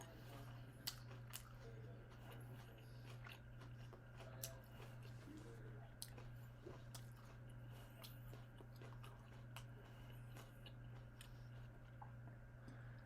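Faint close-up chewing and mouth sounds of a person eating, with scattered sharp clicks, the loudest about a second in and about four and a half seconds in, over a steady low hum.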